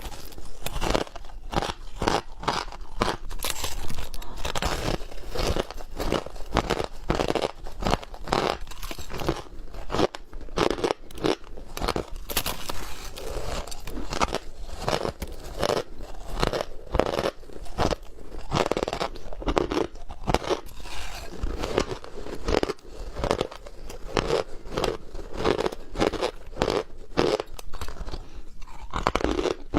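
Ice being bitten and chewed: a continuous run of crisp crunches and cracks, several a second, with no pause.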